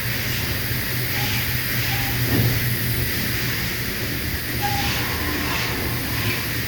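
Southern Pride Turbo automatic car wash equipment running: a steady low machine hum under constant hissing water spray, with a few brief swells of spray.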